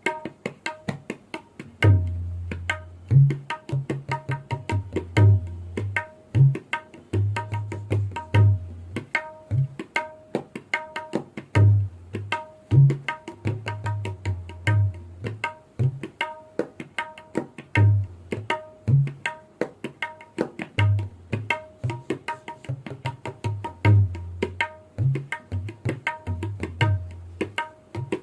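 Background music: a fast, continuous tabla rhythm, with sharp high drum strokes over deep, pitched bass strokes.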